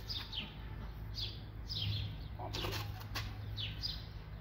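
Small birds chirping over and over, each call a short falling note, over a steady low hum. A few sharp clicks come about halfway through.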